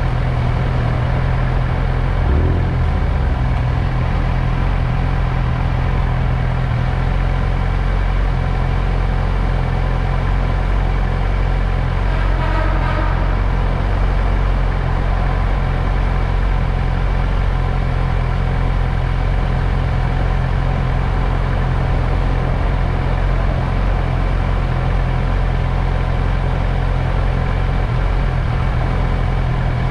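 Motorcycle engine idling steadily at one even pitch, with a brief higher-pitched sound about twelve seconds in.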